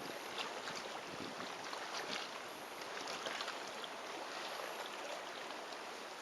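Small lake waves lapping gently at a rocky shore, a steady soft wash flecked with faint little splashes.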